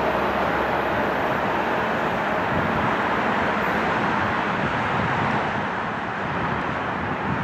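Steady rolling noise of a commuter train running past on the rails, easing slightly near the end.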